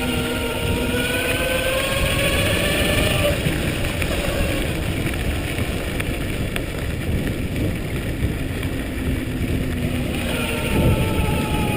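Electric bike motor whining and rising in pitch for about three seconds, fading out, then coming back near the end, over a steady rumble of wind on the microphone.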